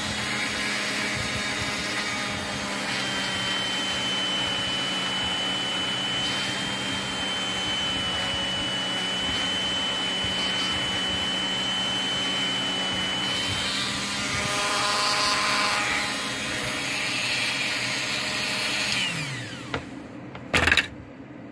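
Dremel rotary tool spinning a cotton buffing wheel, polishing a spinner blade with compound: a steady high-pitched whine, briefly louder a little past the middle, then winding down about nineteen seconds in. A sharp knock follows near the end.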